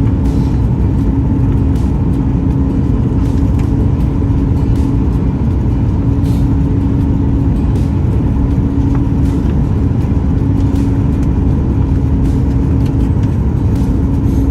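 Steady cabin noise inside a Boeing 737 MAX 9 airliner: the CFM LEAP-1B engines and airflow running as a deep, even rumble with a steady hum on top.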